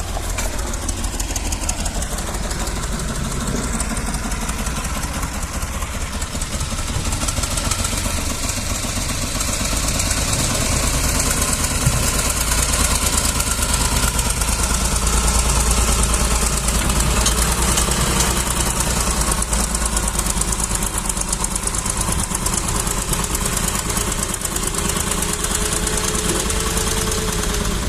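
Tractor engine running steadily with a low rumble, growing a little louder partway through.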